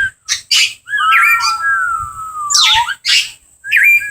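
Parrots calling: short harsh squawks mixed with whistled notes that glide up and down, including one long wavering whistle about a second in.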